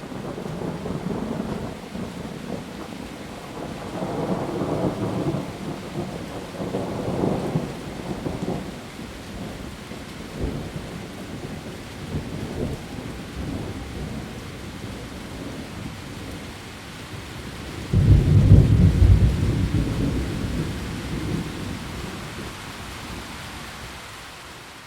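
Steady heavy rain falling on leaves, with thunder rumbling through it. Rumbles swell twice early on, and a sharp, loud clap breaks about two-thirds of the way in, then rolls away over a few seconds.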